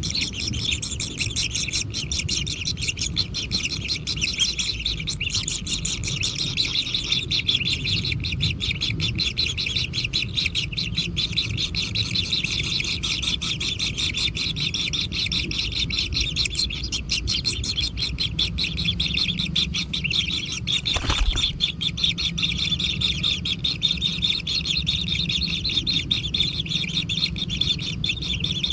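Kingfisher nestlings chirping continuously in a fast, dense stream of high begging calls, with a low rumble beneath and a single sharp knock about three-quarters of the way through.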